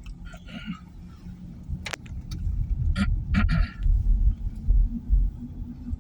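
Steady low rumble of a car moving along the road, with a few sharp clicks and short hissy sounds.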